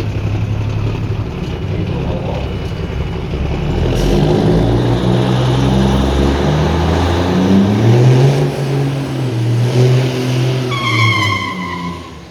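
Heavy truck's diesel engine accelerating hard, its pitch climbing and dropping back in steps as it changes gears. A horn sounds near the end, and then the engine fades away.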